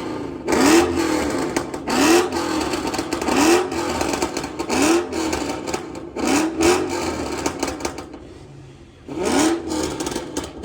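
A car engine revved in quick repeated throttle blips, the pitch shooting up and dropping back about once every second and a half, with a short pause near the end.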